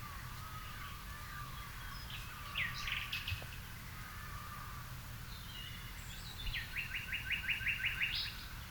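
Garden birds singing in the evening. A short phrase comes about two and a half seconds in, and near the end a quick run of about ten repeated notes rises to a higher final note, over faint calling and a low steady rumble.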